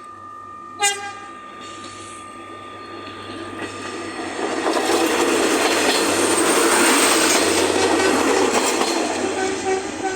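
Alerce diesel railcar gives one short horn blast about a second in, then rolls past, its wheel and rail noise building to a peak in the middle and easing off near the end.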